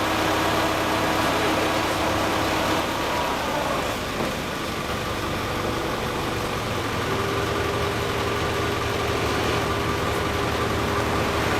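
An engine running steadily at a constant level, with a held hum whose pitch shifts up a little about seven seconds in.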